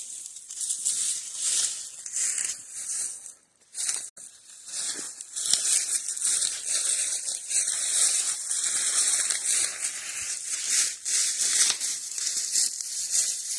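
Footsteps crunching and rustling through dry fallen leaves and brush, an uneven crackle that briefly stops about three and a half seconds in.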